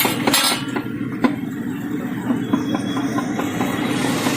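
Busy street-food stall background: a steady low hum with a few sharp clicks of utensils.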